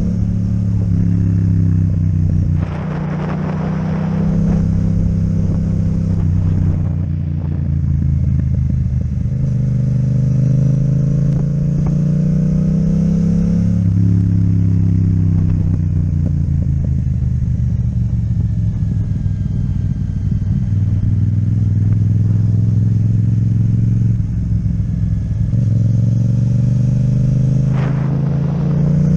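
Yamaha MT-07's parallel-twin engine with an Akrapovic exhaust running under way, its pitch rising and dropping several times as the bike speeds up and slows.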